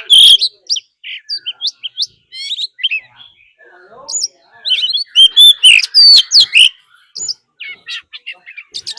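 Oriental magpie-robin singing its loud, varied fighting song of rich whistles and quick sweeping notes. There are dense runs at the start and again about five to seven seconds in, with scattered single notes between.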